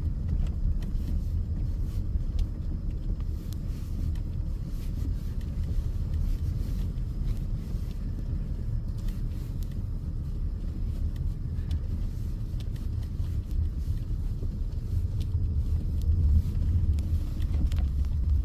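Low, steady rumble inside a car's cabin as it drives slowly through deep, unbroken snow, growing louder in the last few seconds.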